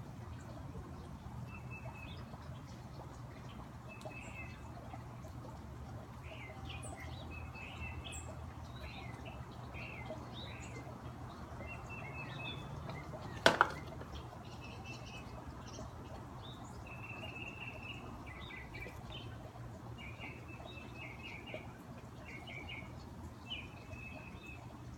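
Backyard songbirds chirping in many short calls, over the steady sound of a garden fountain's running water. A single sharp knock, the loudest sound, comes about halfway through.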